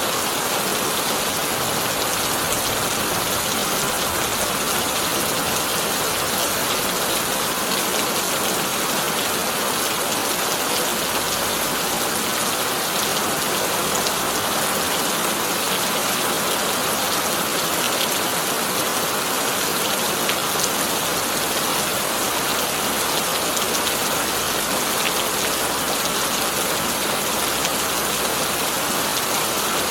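Heavy rain drumming steadily on a corrugated tin roof, a dense even patter with no let-up.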